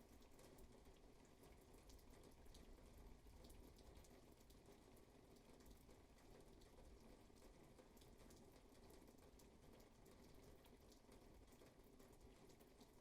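Faint steady rainfall, with many small drops ticking irregularly over the hiss of the rain.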